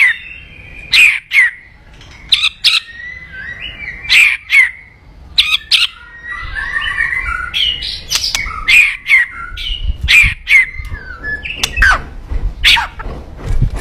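White-rumped shama (murai batu) singing in full, continuous song: loud, sharp chip notes about once a second, woven through with quieter warbled whistles.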